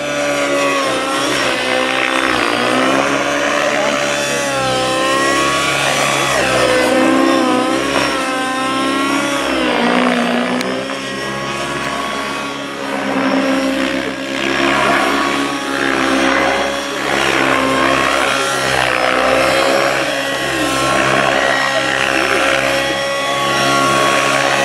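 Radio-controlled model helicopter running in flight, its motor and rotor whine rising and falling in pitch again and again as it manoeuvres.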